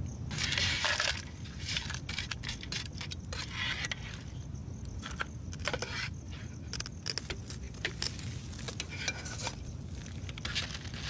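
Irregular clicks, clinks and rustling scrapes of things being handled, loudest in the first second, over a steady low rumble.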